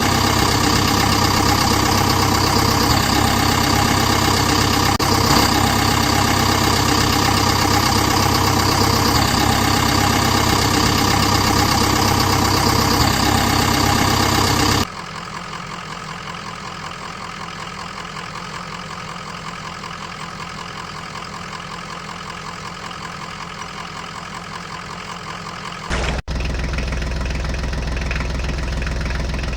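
Tractor engine idling steadily, broken by abrupt cuts about 15 seconds and 26 seconds in; the middle stretch is quieter.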